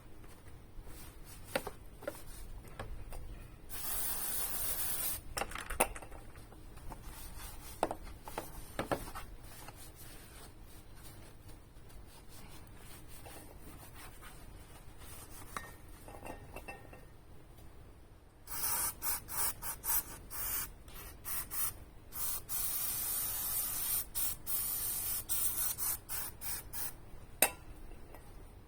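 Aerosol spray can hissing: one spray about four seconds in, then a run of short rapid bursts and a longer continuous spray in the second half, with small taps and rubbing between.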